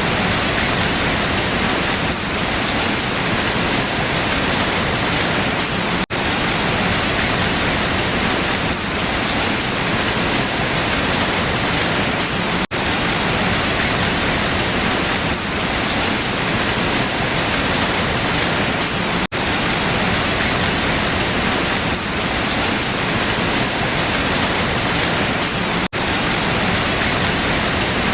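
Steady, dense rain falling on leaves, an even hiss and patter with no thunder. The sound briefly drops out every six or seven seconds.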